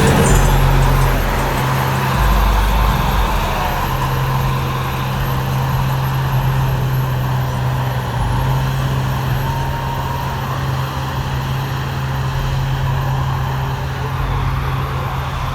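A truck engine running at a steady speed: a deep, even drone.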